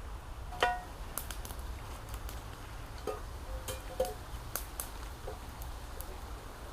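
Campfire crackling, with scattered sharp snaps and a few brief ringing knocks of wood, over a low wind rumble.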